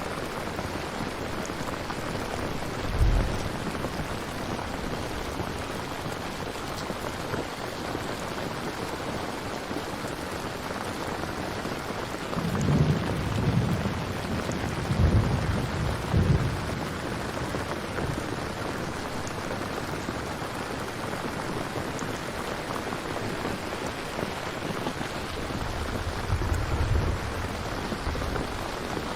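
Steady heavy rain with distant thunder: a short low rumble a few seconds in, a longer rolling rumble in the middle that is the loudest part, and another brief rumble near the end.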